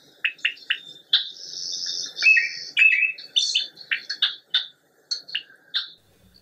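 Birdsong: a run of short, high chirps and whistled notes, with one longer trilled phrase lasting about a second starting about a second in.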